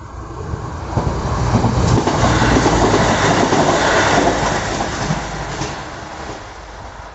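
Train passing over a level crossing, its noise building to a peak a few seconds in and then fading as it goes away.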